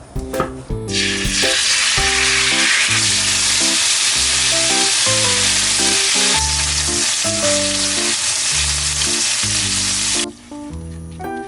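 Food sizzling in oil in a hot frying pan, a loud steady hiss that starts abruptly about a second in and cuts off near the end.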